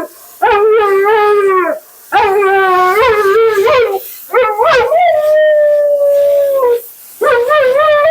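Siberian husky "talking": a run of about five long, wavering howls and woo-woos with short breaks between them, one held fairly steady for nearly two seconds midway.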